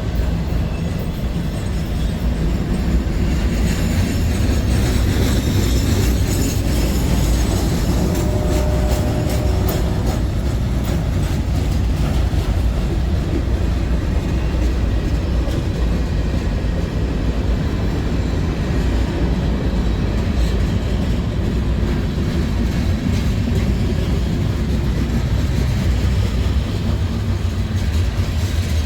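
A train rolling past at close range: a steady heavy rumble of cars on the rails with continuous wheel clatter.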